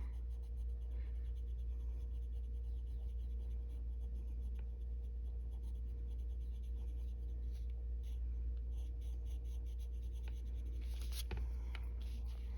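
Colored pencil scratching on paper in small shading strokes, with a sharper tick about 11 seconds in. A steady low electrical hum runs underneath.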